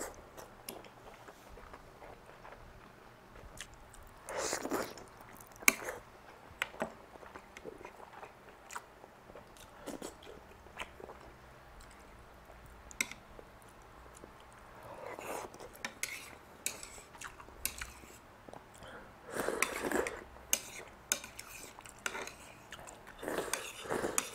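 A person chewing soft rice noodle rolls (cheung fun) close to the microphone, with wet mouth sounds coming in bursts a few times. Scattered sharp clicks of metal chopsticks tap against the plate.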